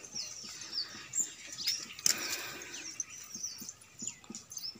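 Wild birds chirping in scrub forest, many short calls sliding down in pitch, one after another, over soft footsteps on stone steps.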